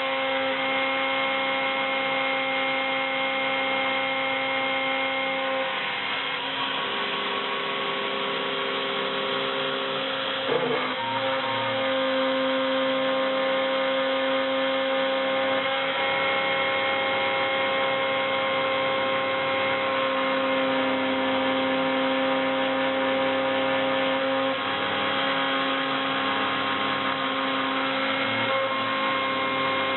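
CNC milling machine running a 3 mm solid carbide fishtail end mill through 0.8 mm copper foil, a steady machine whine. Its several tones shift to new pitches every few seconds as the axes change speed and direction. There is a short sharp noise about ten and a half seconds in.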